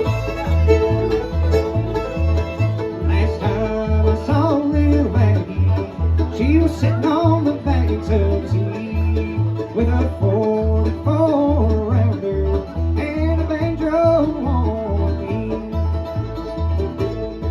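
Bluegrass instrumental jam: banjo and guitar over a steady two-beat bass, with a sliding bowed-string melody line.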